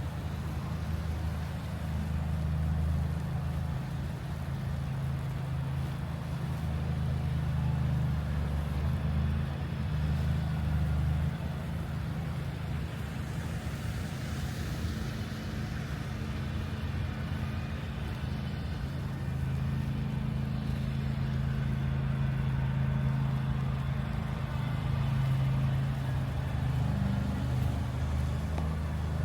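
Steady low outdoor rumble, with a faint hiss above it.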